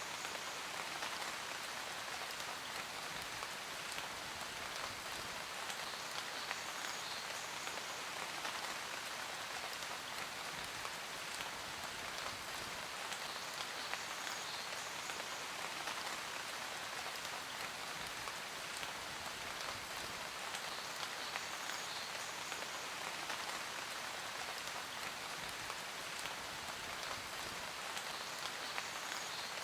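Steady rain falling and pattering on surfaces: an even, unbroken hiss of many drops.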